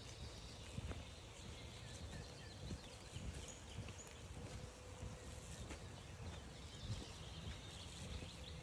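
Faint chirping bird calls over irregular low thuds of footsteps on a forest trail, with a faint steady hum underneath.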